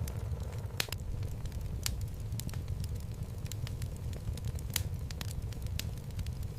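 Wood fire burning in a home fireplace: a steady low rumble of flame with frequent, irregular sharp crackles and pops from the burning logs, the loudest pops about a second in and just under five seconds in.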